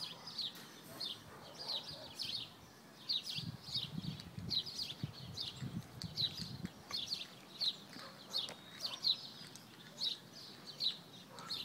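A small bird chirping over and over, short high chirps at about two a second.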